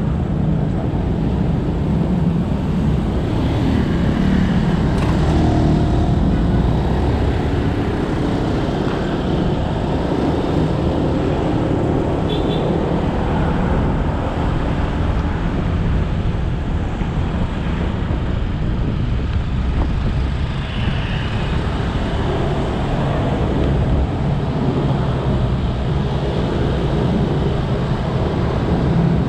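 Motorcycle engine running under way, mixed with steady road and tyre noise and surrounding traffic. A brief high chirp comes about twelve seconds in.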